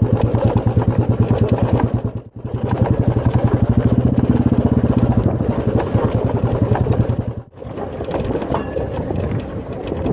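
Motorcycle engine running with a fast, even beat. It cuts out briefly about two seconds in and again about seven and a half seconds in, and is quieter and less regular after the second break.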